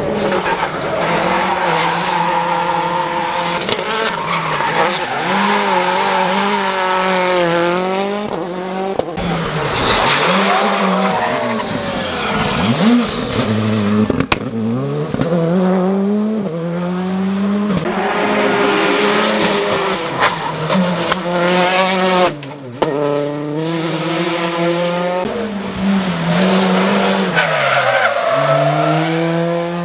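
Rally cars driven flat out on a special stage, engines revving up through the gears and dropping back on each lift and shift, again and again. Tyre noise comes in as the cars slide through corners.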